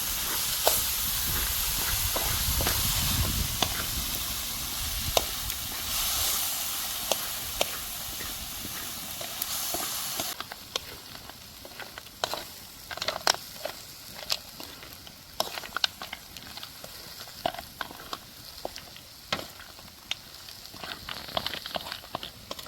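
Chicken and leaf vegetables cooking over a wood fire: a steady sizzling hiss at first. About ten seconds in the sound changes abruptly and becomes quieter, with scattered sharp crackles and clicks.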